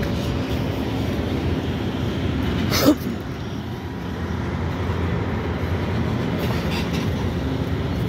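Norfolk Southern freight cars rolling past on the rails with a steady low rumble. A brief sharp sound cuts through about three seconds in.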